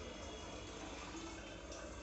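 Water running faintly into a bottle as it is filled.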